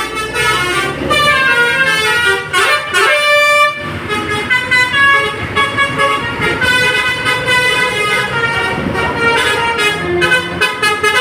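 Vehicle horns, several at different pitches, sounding and overlapping with little break.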